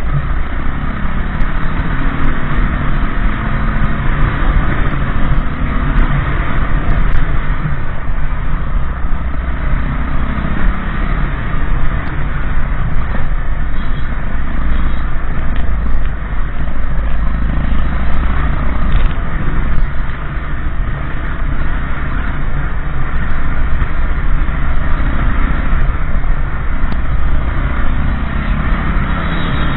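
Motorbike riding along at a steady pace: its engine running with a continuous rush of road and wind noise.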